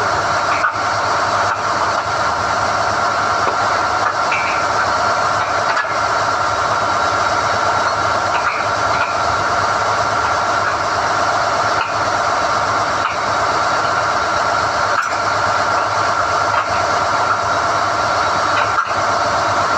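SDH-1600 core drilling rig's power unit running steadily with a constant whine while NQ drill rods are hoisted from the hole. A few faint knocks come through.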